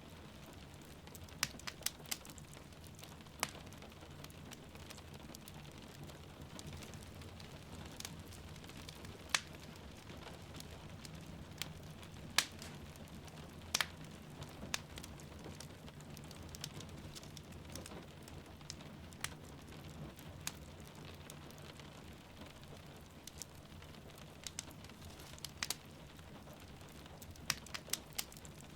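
Wood fire crackling, with sharp irregular pops and snaps, over a steady hiss of falling rain.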